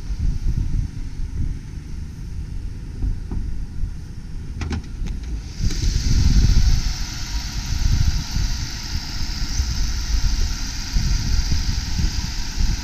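1995 Ford Taurus engine idling steadily and smoothly, with no roughness. A few faint clicks come a little before halfway, and then a steady higher hiss comes in and stays.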